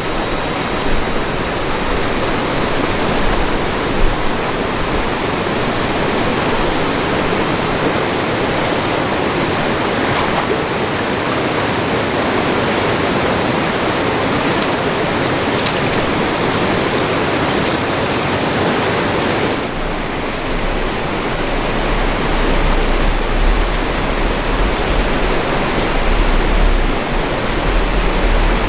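Rushing mountain stream water, a loud steady wash of noise. A low rumble joins it about two-thirds of the way through.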